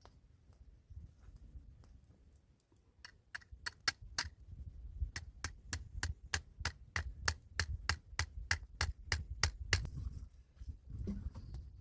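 A fast, even series of sharp knocks, about four a second, each with a dull thud beneath. It starts about three seconds in and stops near the tenth second, like something being struck over and over.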